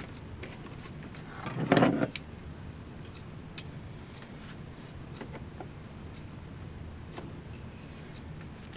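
Nails being worked out of the inside of an antique wicker basket with hand tools: a loud scrape and rattle near two seconds in, then a few sharp light clicks over a steady low hum.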